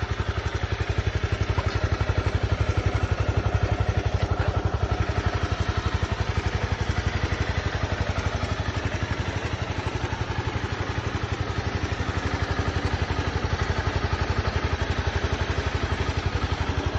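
Honda CBR250R's single-cylinder four-stroke engine idling steadily, an even train of exhaust pulses.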